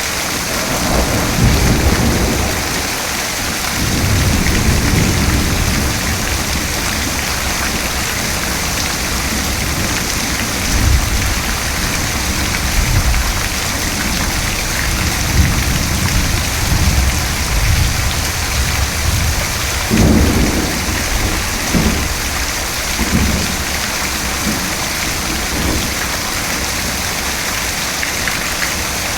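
Steady heavy rain with thunder: long low rumbles rolling in the first few seconds and again around the middle, and a sharper thunderclap about twenty seconds in followed by further rumbles.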